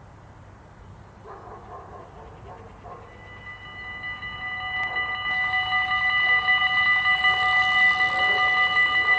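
Level crossing warning bells start ringing about three seconds in, a rapidly pulsing chime of several steady tones that grows louder over the next few seconds. It is the crossing's warning that a train is approaching.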